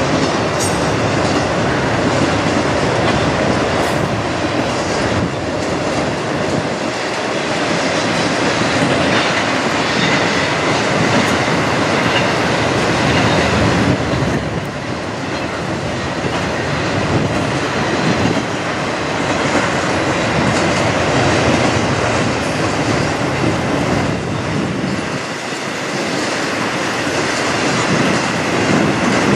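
Intermodal freight train rolling steadily past: loaded container well cars and trailer flatcars clattering over the rail joints, with the continuous rumble of steel wheels on rail.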